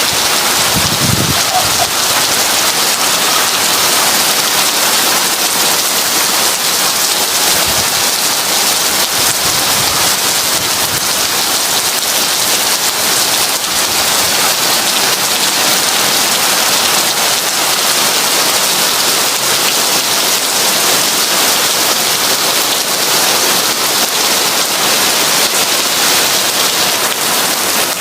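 Heavy rain falling in a steady, even hiss, with a brief low rumble of thunder about a second in.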